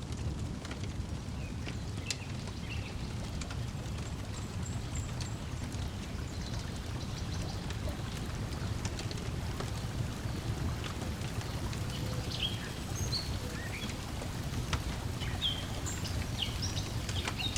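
Lakeside ambience: a steady low wash of water lapping, with scattered sharp crackles of a wood fire and short bird chirps now and then, more of them in the second half.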